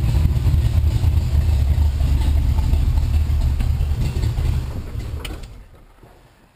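1967 Corvette's 427 cubic-inch tri-power big-block V8 idling with a lumpy high-lift-cam beat ("plunkety plunk"), then switched off about five seconds in and running down to quiet.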